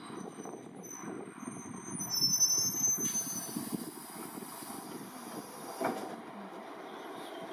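JR East 701 series two-car electric train slowing at a platform over a low rumble. Its brakes squeal in several high, steady tones for about three seconds, and a hiss of air follows for a couple of seconds.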